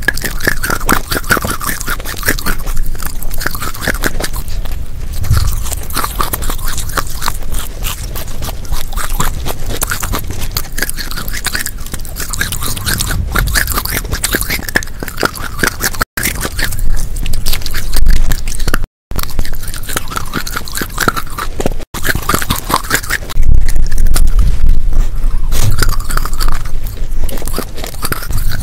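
Close-miked biting and chewing of a crunchy chocolate-coated wafer snack: dense, crisp crunches one after another, broken by three brief silent gaps in the second half.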